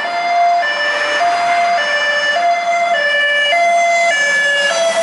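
Emergency vehicle's two-tone siren, alternating between a high and a low note, each held a little over half a second. It is loud and close.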